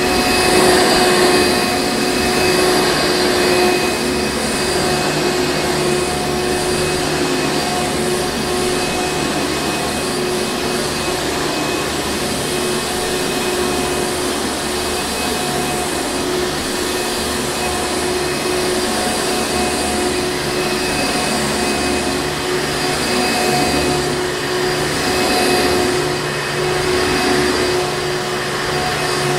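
Hoover Encore Supreme vacuum cleaner running steadily: a constant motor whine over a rush of air, with only slight swells in loudness.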